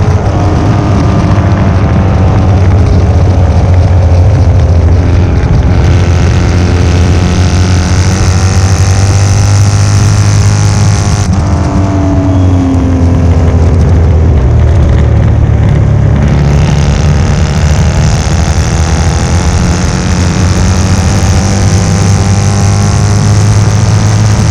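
1972 Norton 750 short-stroke parallel-twin race engine running hard under racing load, its note rising and falling with the revs, with a sudden brief break about eleven seconds in.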